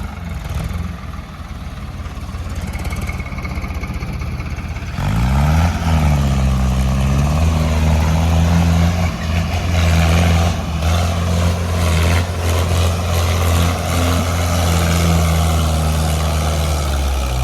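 Tractor diesel engine running low for the first few seconds. About five seconds in it is suddenly revved up, dips briefly, then is held at high revs as it strains to pull a heavily loaded trolley.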